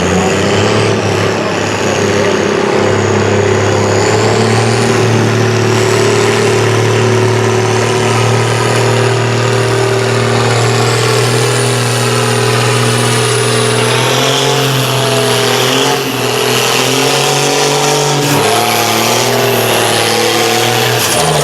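Competition pulling tractor's engine running hard under load during a pull, holding a high, fairly steady pitch that wavers in the last few seconds, with a high whine over it. The engine backs off right at the end.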